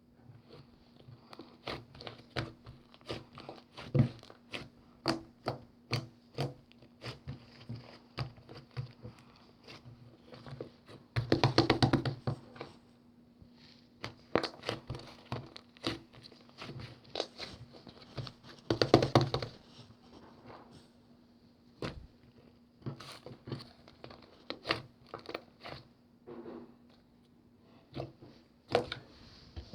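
Slime being squished and pressed by hand, giving irregular sticky clicks and pops, with two short runs of rapid crackling pops, about a third of the way in and again just past the middle.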